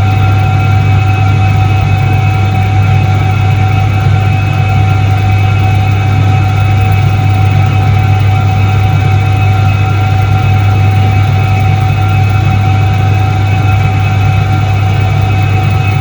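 Soviet Iset-3 washing machine (1978) running steadily: a loud, constant low electric-motor hum with a few steady higher whining tones over it, unchanging throughout.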